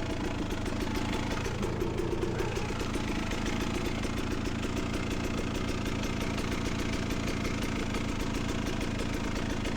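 Beta 300RR two-stroke dirt bike engine idling steadily at low revs, with no revving.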